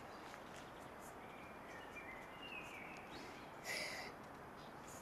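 Quiet outdoor ambience with a few faint bird chirps around the middle, and a brief scuffing noise a little before the end.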